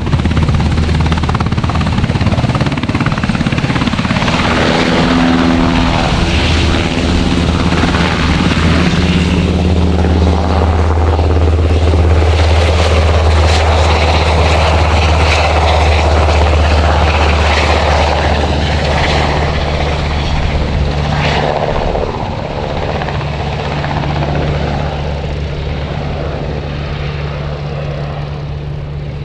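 Sikorsky S-64 Skycrane heavy-lift helicopter running loud and steady, its turbines and rotor making a deep, even drone. The sound drops somewhat about three-quarters of the way through.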